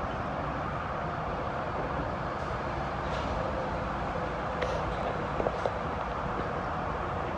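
Metro-North M8 electric commuter train pulling away and fading down the track: a steady rumble with a faint hum, and a few light clicks about five seconds in.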